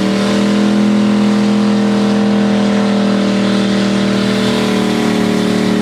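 4x4 truck engine held wide open at high revs, a loud steady drone.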